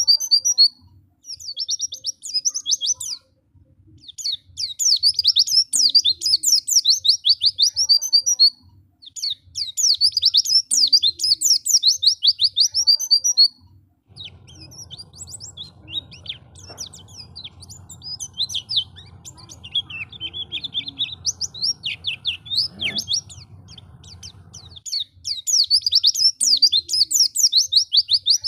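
White-eye (pleci) song: fast, chattering high trills in bursts of one to three seconds with short pauses between them. In the middle the song thins to scattered calls over a faint low hum.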